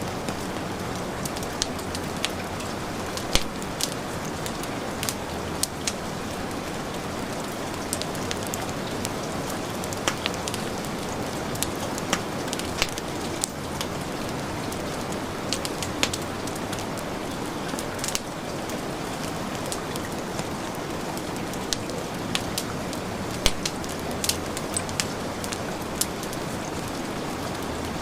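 Steady heavy rain mixed with a wood fire crackling, its sharp pops scattered irregularly every second or so over the even hiss of the rain.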